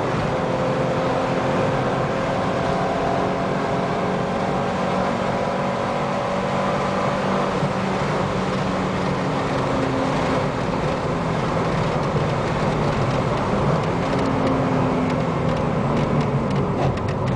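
Alfa Romeo 33 1.7 16v's flat-four boxer engine running steadily at speed on track, heard from inside the cabin. Its pitch drifts slowly down through the middle and rises again later, with a few clicks near the end.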